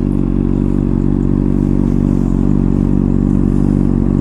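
Honda CBR600RR's inline-four engine running steadily through an aftermarket MGP exhaust.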